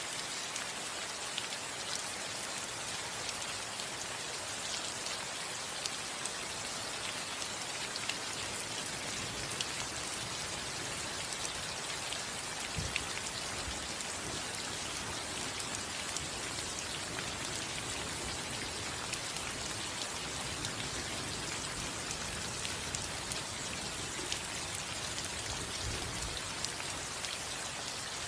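Steady rain falling on a house roof: an even hiss of rainfall with many individual drops ticking on the roof, and a few louder drops now and then.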